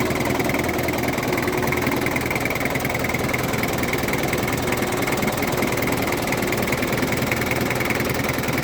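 Engine of an old 4x4 running steadily, with no change in speed.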